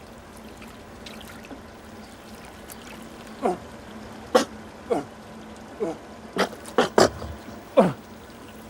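Young sea lion barking: a run of about eight short barks starting some three and a half seconds in, several of them sliding quickly down in pitch, over a steady trickle of water.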